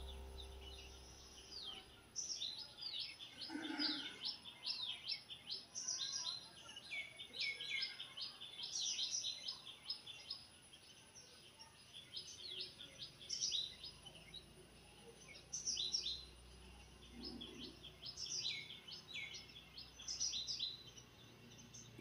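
Small birds chirping: rapid, high-pitched calls in clusters, with short gaps between.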